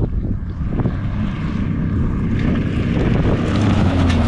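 A 2003 Pontiac Bonneville race car's engine running hard through a gravel-road run: a steady, loud drone that swells toward the end.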